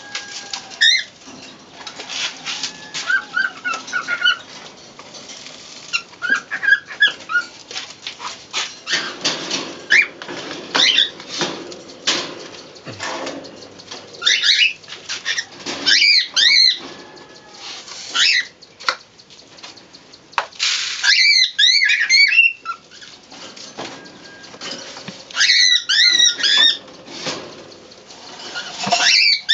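Pigeons feeding on a grain mix: rapid, irregular pecking clicks, with several bouts of high, wavering squeaks from squabs.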